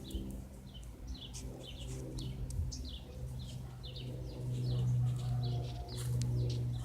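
Cessna light plane's engine giving a steady low drone that grows louder about four to five seconds in, with small birds chirping rapidly over it.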